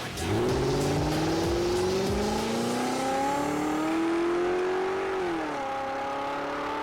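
Alfa Romeo Giulia engine through a MADNESS Monza performance exhaust, accelerating hard: its pitch climbs steadily for about five seconds, then drops and holds lower, as on an upshift.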